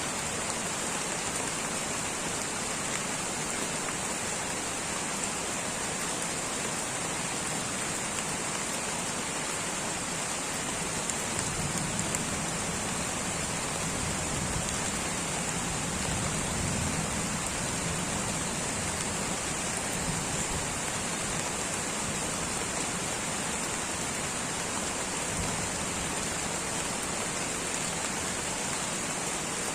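Light rain falling steadily, an even hiss with a constant high-pitched band, and a low rumble that swells for several seconds about halfway through.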